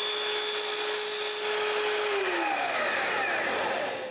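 Power saw running and cutting a 45-degree angle in wood, then switched off about halfway through, its motor winding down with a falling whine.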